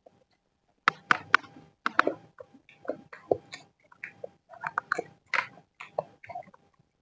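Close-miked chewing of nasi goreng kampung (village-style fried rice): a quick, irregular run of wet chewing clicks and lip smacks that starts about a second in.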